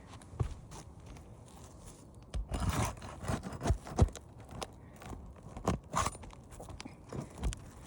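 Scraping and sharp knocks of hand work loosening a damaged roof shingle: a scraping stretch about two and a half seconds in, and single knocks scattered throughout.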